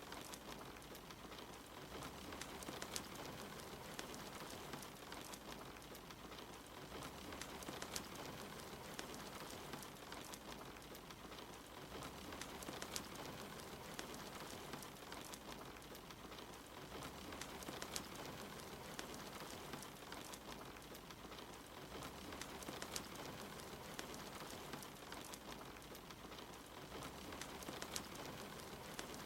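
Steady rain falling together with a crackling fireplace fire, with sharp pops scattered irregularly throughout.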